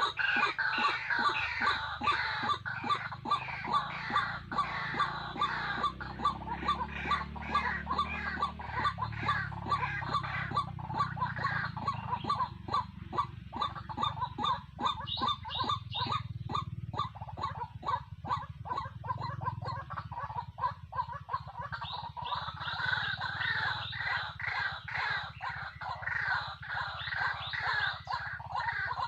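White-breasted waterhen (truwok) calling: a long run of rough, rapidly repeated notes, thinning out in the middle and growing stronger again near the end, over a steady low hum.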